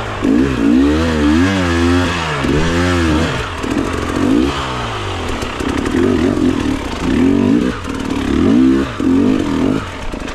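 Enduro dirt bike engine revving up and down over and over, with bursts of throttle, as it is ridden slowly over rocky ground. Some clatter of rocks and bike parts comes through.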